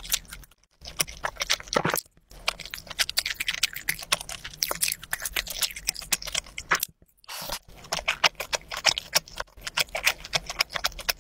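Close-miked chewing of spicy tteokbokki in sauce: dense, rapid wet clicks and smacks of mouth and food. The sound drops out briefly about half a second in, around two seconds and around seven seconds.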